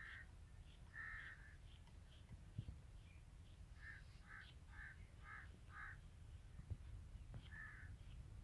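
A bird calling faintly: single short calls at the start and about a second in, then a quick run of five calls about four seconds in, and one more near the end.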